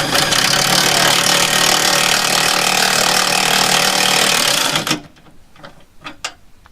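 A loud power tool running steadily with a hum and hiss, then cutting off abruptly about five seconds in; a few light clicks follow.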